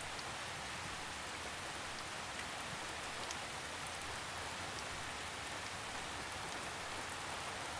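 Steady rain falling: an even hiss with occasional single drops standing out.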